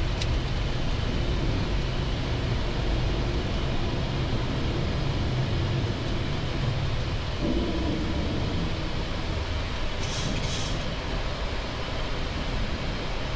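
Steady cockpit noise of a Boeing 737 MAX 8 in its initial climb after takeoff: a constant low rumble of CFM LEAP-1B engines at climb thrust and rushing airflow. A short hiss comes twice about ten seconds in.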